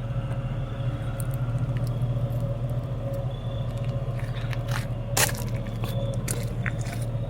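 A 2000 truck's engine running steadily, heard from inside the cab with the windows up, with a sharp click about five seconds in.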